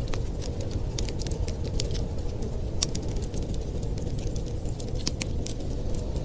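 Wood fire crackling: irregular sharp pops and snaps, the loudest about three and five seconds in, over a steady low rumble.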